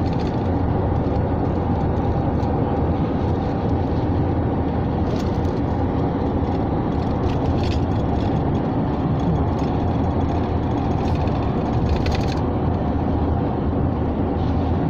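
Steady noise of wind and rain, even and unbroken, heaviest in the low end.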